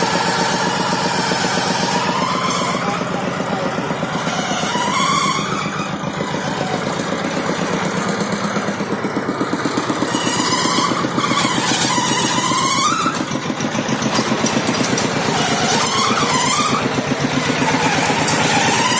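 Tractor engine running steadily under load as the tractor drives along, with music and a wavering singing voice over it in several passages.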